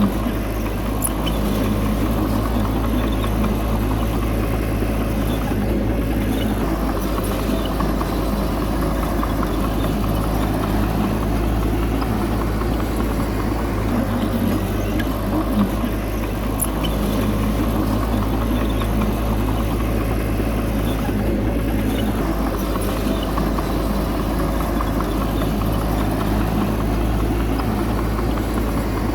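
Bulldozer's diesel engine running steadily at a constant pitch, with no clear revving.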